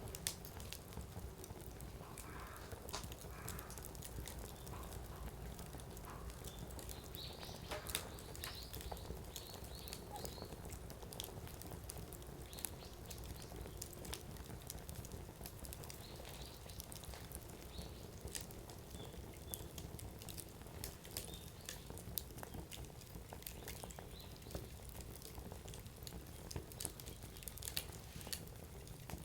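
Wood fire burning in a Coleman Fire Disk: firewood crackling with irregular sharp pops and snaps over a steady low rumble of the flames, one louder snap about eight seconds in.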